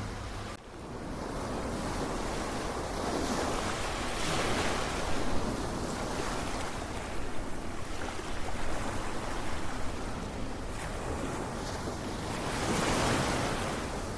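Ocean surf: waves washing in and rolling back in a steady hiss of water, swelling with a larger wave breaking about four seconds in and another near the end.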